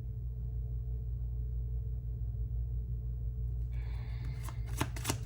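A steady low hum, then near the end a quick run of crisp clicks and slaps, like tarot cards being shuffled.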